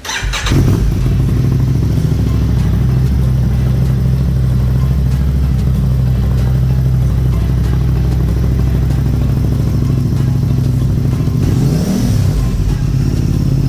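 Aprilia Tuono 660's parallel-twin engine, breathing through an Akrapovic full exhaust, starting up and idling steadily, with one short blip of the throttle about twelve seconds in.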